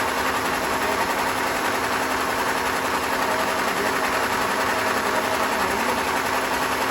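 Sawmill machinery running steadily: an even mechanical whir with a constant hum.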